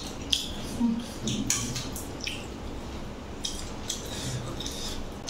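A person eating chicken and rice with the mouth open: a string of short wet chewing and lip-smacking clicks, one cluster in the first two seconds and another from about three and a half seconds in.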